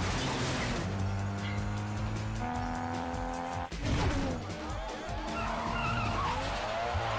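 Film soundtrack of street-racing cars: engines revving and tyres skidding, mixed with music. About halfway through the sound breaks off sharply and picks up again with engines gliding up and down in pitch.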